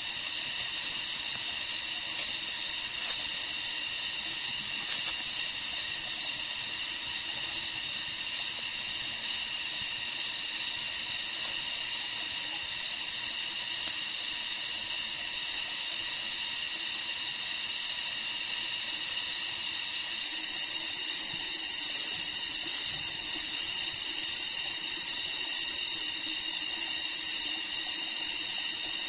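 Steady high-pitched chorus of rainforest insects, such as cicadas, holding a continuous shrill hiss with its texture shifting slightly about two-thirds of the way through.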